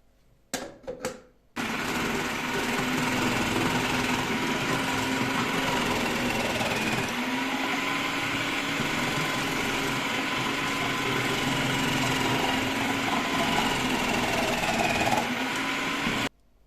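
A few clicks, then an electric food chopper's motor running steadily for about fifteen seconds before it cuts off suddenly near the end.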